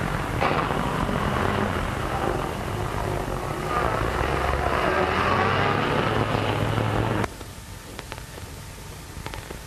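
Old car engine running as the car drives along a street, over general street noise. The sound cuts off suddenly about seven seconds in, leaving faint soundtrack hiss with a few clicks.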